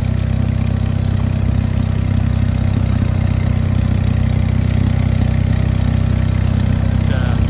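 Engine of a small off-road ranch vehicle running at a steady, even speed while driving.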